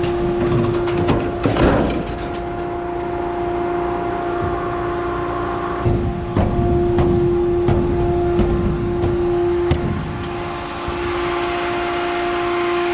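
Steady machinery hum with one constant pitch, broken by scattered knocks and clanks, several of them in the middle of the stretch.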